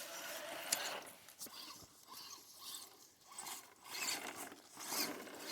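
Scale RC crawler trucks driving over rocks and dirt: faint scraping and rustling of tyres and drivetrain, with scattered clicks, one sharp click under a second in.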